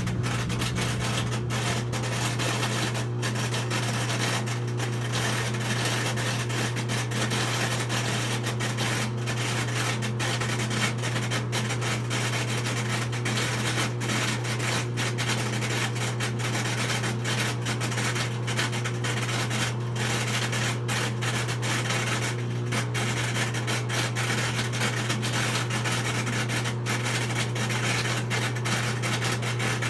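Whirlpool front-load washer running in its spin and drain cycle. It cuts in suddenly with a loud, steady low hum and a continuous rough scraping or grinding noise over it. This is the unwanted noise the machine makes during that cycle.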